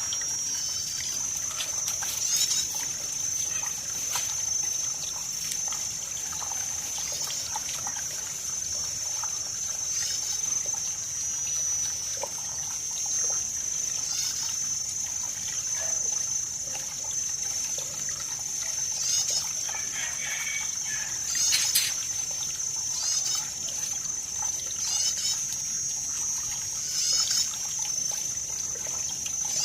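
Water trickling and splashing steadily. Over it runs a constant high-pitched ringing tone, with short high chirps recurring every second or two.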